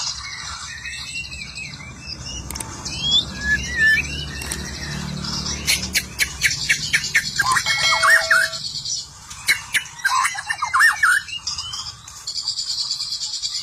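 White-rumped shama (murai batu) singing: a varied run of twisting whistled phrases over a fast high-pitched chatter, broken by sharp clicking notes.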